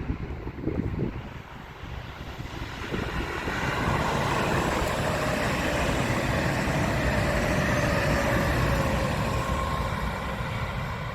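A train passing close by. It grows louder from about three seconds in, with faint tones that slowly fall in pitch as it goes by, and eases off near the end. There are low gusts of wind on the microphone in the first second.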